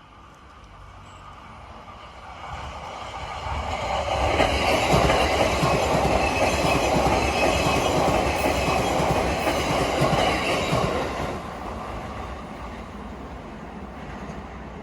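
JR E233-series electric train passing at speed. Its sound builds over a few seconds and stays loud for about seven seconds, with the wheels clattering over rail joints. It then drops off about eleven seconds in as the train moves away.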